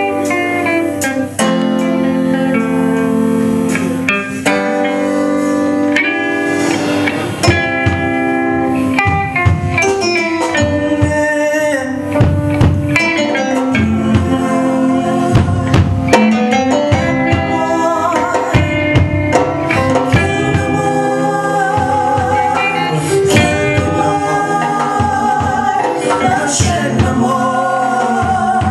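Live band music with guitar, keyboard and drums, and a voice singing over it.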